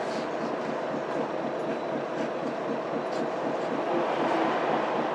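Mitsubishi Fuso Aerostar city bus's 6M70 six-cylinder diesel engine running steadily, heard from inside the passenger cabin, with an even low rhythmic pulsing.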